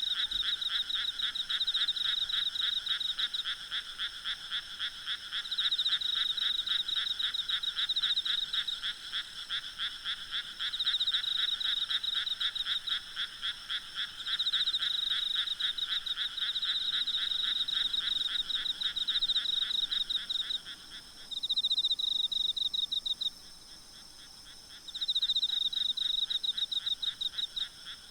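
A chorus of frogs calling at night in rapid pulsed trains that come in bouts, one voice falling silent about three-quarters of the way through while another keeps calling. Faint steady insect chirring runs underneath.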